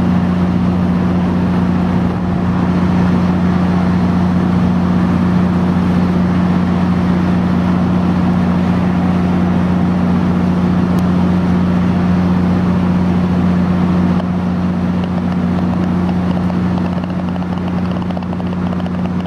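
Diesel passenger locomotive running at a steady idle, a loud even drone with a low hum that does not change pitch.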